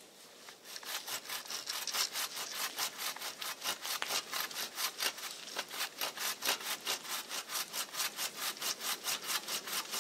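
Hand saw cutting wood in quick, even back-and-forth strokes, about four to five a second, starting just under a second in.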